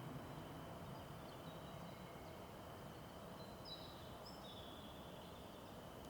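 Faint outdoor ambience with distant birds giving a few short high chirps, once a little after the start and a cluster near the middle, over a steady thin high tone.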